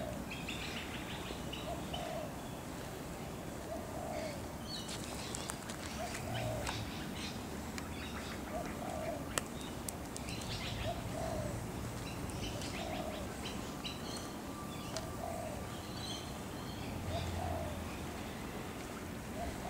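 Birds calling outdoors: one bird repeats a short, low call about every two seconds, while smaller birds chirp and twitter above it. A single sharp click sounds about nine seconds in.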